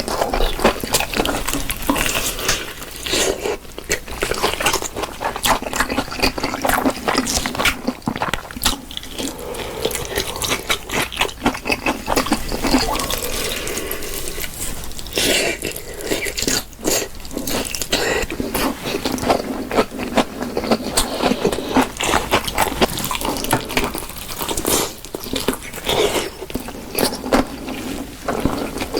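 Close-miked eating of crispy fried chicken: crunching bites and wet chewing, a dense crackle of small clicks and smacks throughout.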